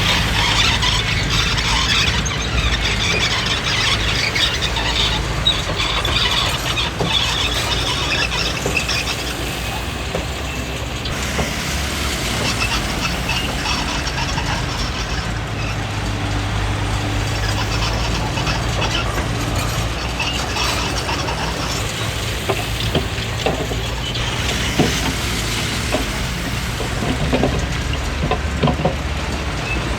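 Komatsu D20P crawler bulldozer working: a steady diesel engine hum with the tracks squealing, and scattered clanks and knocks from the undercarriage toward the end.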